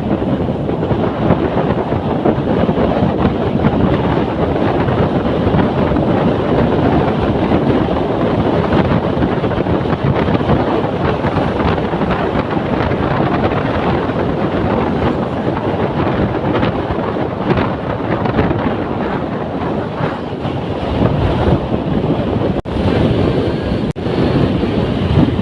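Loud, steady wind buffeting the microphone as a rushing roar, with a couple of brief dropouts near the end.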